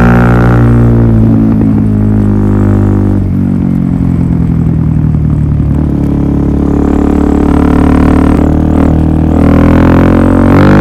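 Suzuki DR-Z400SM single-cylinder four-stroke engine running through a Yoshimura full exhaust system: the exhaust note sags in the first few seconds, holds lower, then climbs again from about halfway through.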